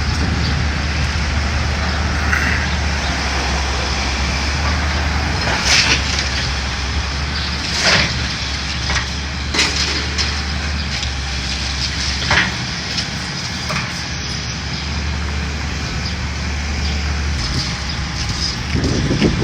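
Heavy demolition machine's diesel engine running steadily while the wooden building it is tearing down cracks and splinters, with about four sharp cracks in the middle of the stretch.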